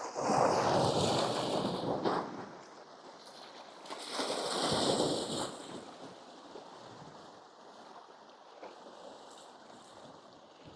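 Sea waves washing against coastal rocks: two rushing surges a few seconds apart, each about two seconds long, then a low steady wash.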